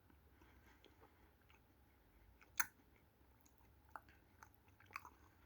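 Faint mouth sounds of someone eating an ice cream sandwich: a few short, wet smacks and clicks with quiet gaps between them, the loudest about two and a half seconds in.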